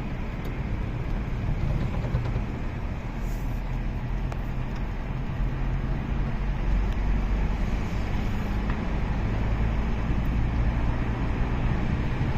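Steady motor-vehicle noise: a low engine hum with road rumble, holding on without a break.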